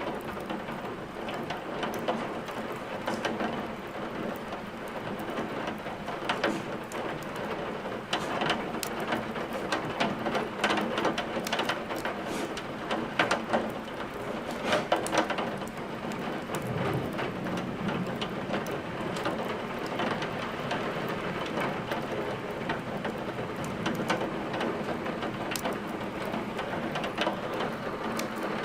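Steady rain with the crackle of a burning wood fire, many sharp pops and snaps scattered over the rain's hiss.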